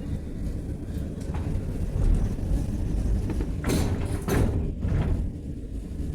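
Sliding doors of an Alstom NS-16 metro car closing, with two loud short impacts about three and a half and four seconds in as they shut, over the stopped car's steady low rumble.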